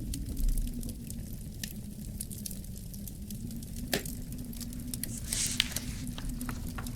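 Wood fire crackling, with irregular sharp pops over a low rumble of burning and a brief hiss about five and a half seconds in.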